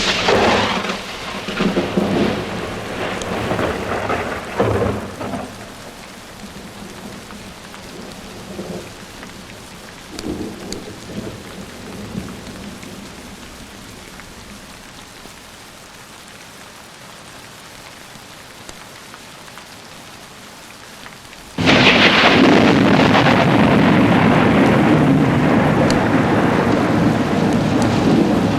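Thunder over steady rain: a loud clap at the start rolls off over about five seconds, a few fainter rumbles follow, then about three-quarters of the way through a sudden loud peal breaks and keeps rolling.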